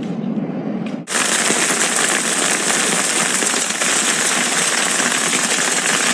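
Hail pelting down: a loud, dense, steady clatter of countless small impacts, starting abruptly about a second in after a lower steady rumble.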